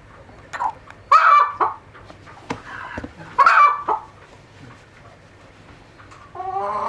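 Chickens clucking and squawking in short pitched calls, the loudest about a second in and again about three and a half seconds in.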